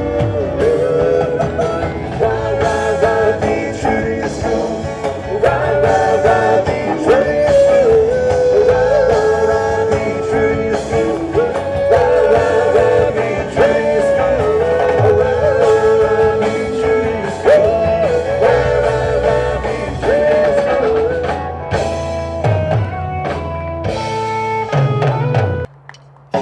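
Rock and roll band playing an instrumental passage, a lead line bending in pitch over bass and drums. The music cuts off suddenly about a second before the end.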